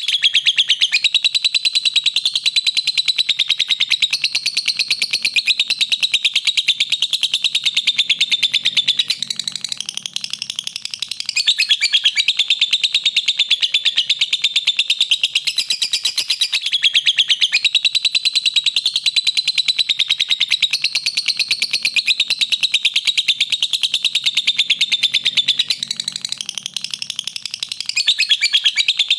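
Lovebird chattering in a long, unbroken run of rapid high chirps, easing off briefly twice: about a third of the way in and near the end.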